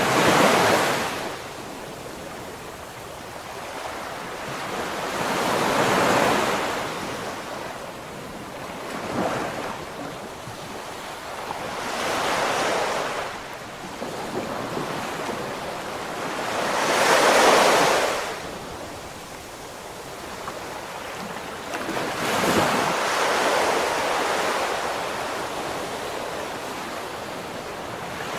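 Ocean waves breaking as surf, each one swelling into a rush of hiss and fading away, about one every five seconds; the loudest comes a little past halfway.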